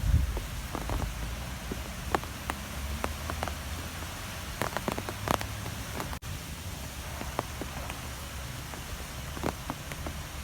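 Strong wind blowing: a steady low rumble with scattered sharp ticks and patters.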